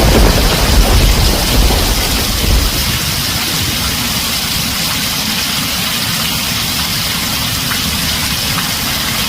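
Heavy rain pouring onto a tin roof, a loud steady hiss. A rumble of thunder dies away in the first two or three seconds.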